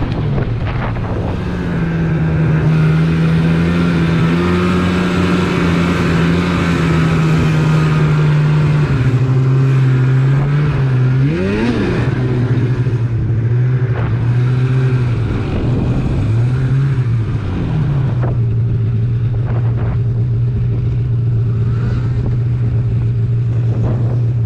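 Polaris RMK snowmobile engine running steadily at a fairly high speed, then easing off, with three quick rises and falls in engine speed through the middle before settling to a steady, slightly lower speed.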